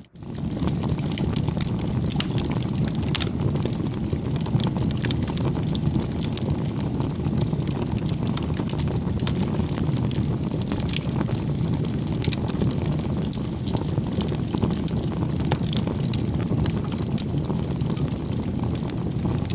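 Bonfire burning: a steady low rumble of flames with frequent small crackles and pops. The sound drops out for an instant at the very start.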